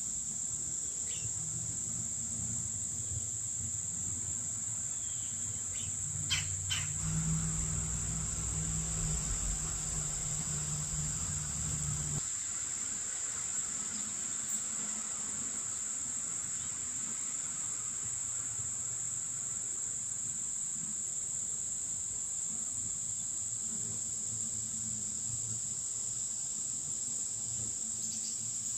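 Steady, high-pitched outdoor insect chorus droning without a break. A low hum lies under it and stops abruptly about twelve seconds in, and a few faint clicks come around six to seven seconds in.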